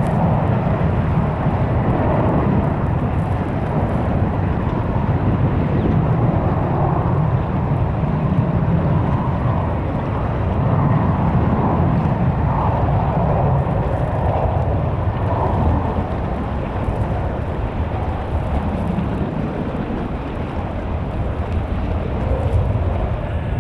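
Jet airliner engines giving a loud, steady rumble, easing off slightly in the second half.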